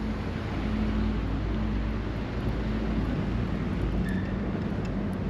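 Street traffic: a vehicle engine running steadily with a low rumble and hum.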